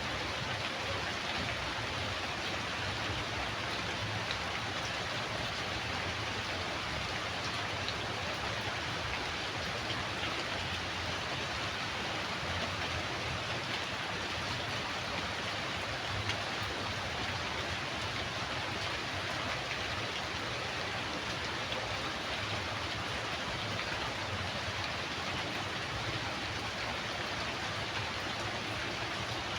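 Steady rainfall: an even, unbroken patter of raindrops.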